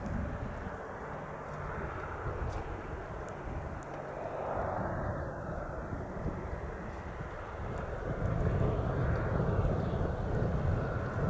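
Cessna 172 Skyhawk, a single piston-engine light plane, heard as a steady engine and propeller drone that grows louder about eight seconds in as it comes closer.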